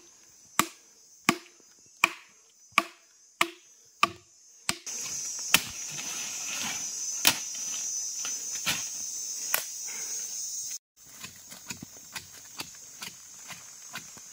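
A blade chopping into wood in even strokes, about three every two seconds, for the first five seconds. Then comes a louder, busier stretch with scattered strikes. A steady high insect drone runs underneath and grows louder partway through.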